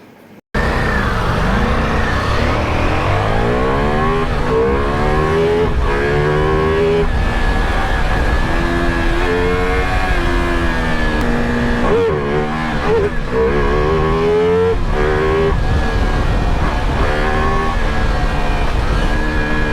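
Sport motorcycle engine accelerating hard, its pitch climbing and dropping again and again through gear changes, over steady wind rumble on the mic.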